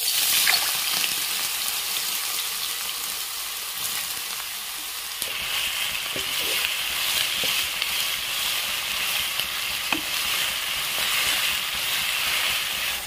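Mushrooms hitting smoking-hot mustard oil in a wok, starting a sizzle the instant they go in that carries on steadily as they fry. A wooden spatula stirs them, with a few scraping clicks against the pan.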